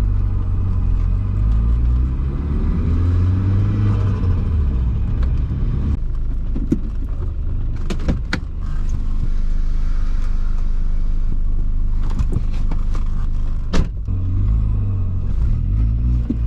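VW Mk3's swapped-in 1.8T turbocharged four-cylinder engine heard while driving: it pulls under acceleration with rising pitch in the first few seconds, then runs on more steadily with a few sharp clicks. The turbo is making only about 5 psi of boost because the N75 wastegate control valve is dead.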